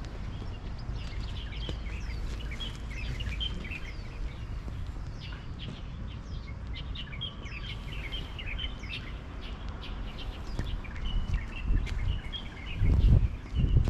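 Many small birds chirping in short high calls and quick falling notes, over a steady low rumble. Near the end the low rumble swells into a few louder bursts.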